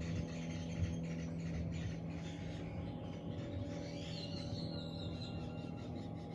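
Small birds chirping and whistling in short high notes, with a clearer run of whistled notes about four seconds in, over a steady low hum.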